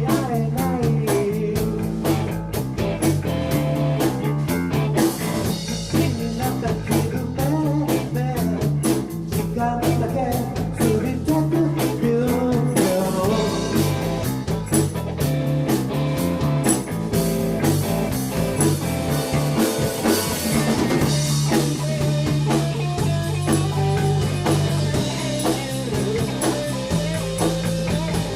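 Rock band playing: electric guitar over a stepping bass line and a drum kit.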